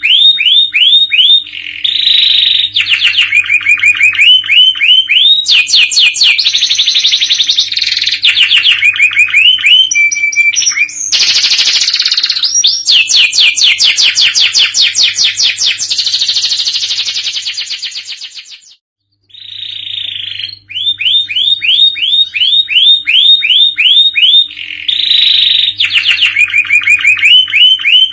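Domestic canary singing continuously in fast trilled phrases, each made of quick repeated notes. A long rapid roll fades out about two-thirds of the way through, a second's pause follows, and then the song starts again. A faint steady hum runs underneath.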